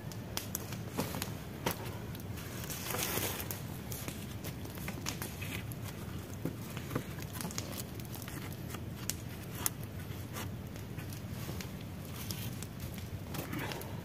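Scattered light clicks and crackles, with a brief rustle about three seconds in.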